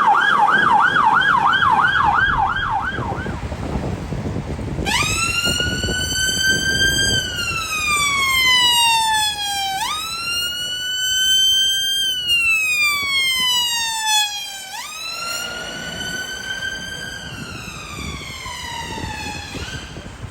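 Emergency vehicle siren: a fast yelp, about four sweeps a second, dies away over the first few seconds. Then a slow wail starts, each cycle rising and then falling over about five seconds, repeated four times, over road and engine noise.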